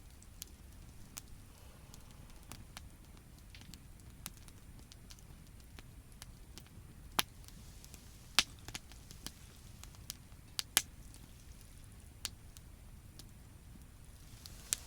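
Wood campfire crackling, with irregular sharp pops, a few of them loud in the middle of the stretch.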